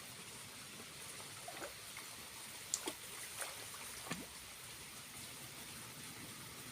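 Small waterfall trickling with a steady, faint hiss of falling water, and a few water drops plinking in the middle.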